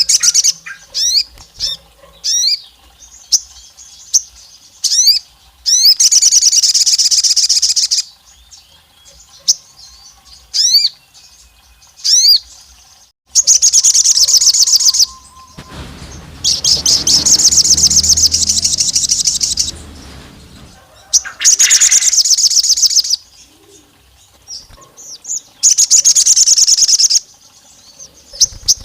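Sogon songbird singing: sharp rising chirps in quick succession at first, then repeated loud, fast, high trills of one to two seconds each. A rustling, fluttering noise runs in the middle for a few seconds.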